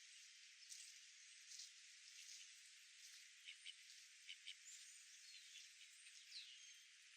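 Faint outdoor park ambience: a steady high hiss with many scattered brief chirps and ticks, a few of them short sliding bird calls.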